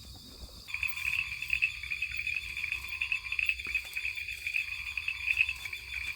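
Wetland night chorus of frogs and insects. A steady high trill runs throughout, and under a second in a louder, rapidly pulsing chorus starts up and keeps going.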